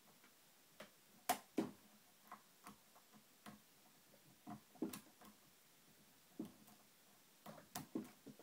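Lock pick and tension wrench working the pins of a TrioVing oval pin-tumbler cylinder: irregular small metallic clicks and taps, the two sharpest about a second and a half in.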